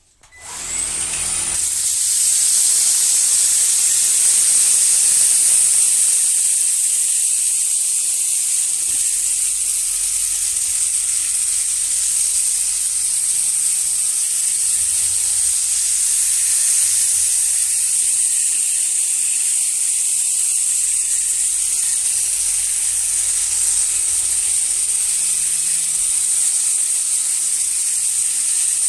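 Alfawise FJ166A vacuum cleaner switched on, its motor spinning up to a high whine. It then runs steadily with a rushing hiss of air while its main brush sweeps up rice on the floor.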